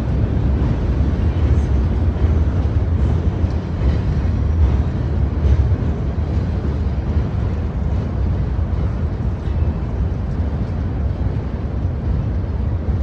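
Freight train rolling past with a steady low rumble and a few faint clacks.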